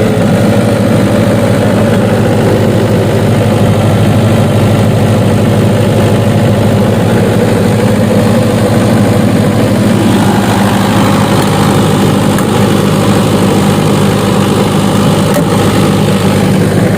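Engine of a 30 kVA generator set running steadily at its 1500 rpm running speed, a constant low hum with no change in pitch.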